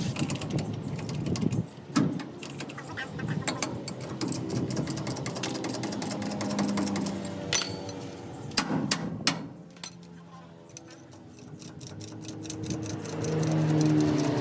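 Metal tools clinking and knocking while working a bolt loose, with repeated sharp clicks. There are a few louder knocks around two seconds in and between seven and nine seconds in.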